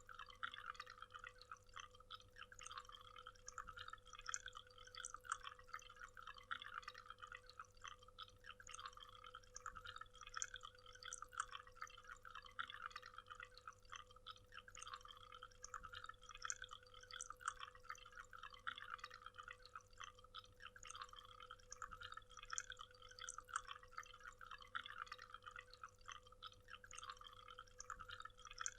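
Faint, steady splashing and trickling of a waterfall, a dense patter of drips and small splashes with no pause.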